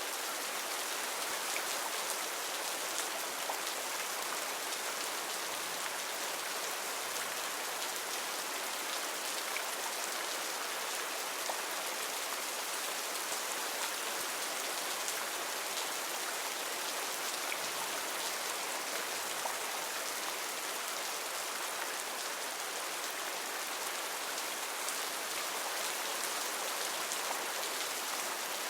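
Heavy rain falling steadily on rainforest foliage, an even hiss with scattered drop ticks.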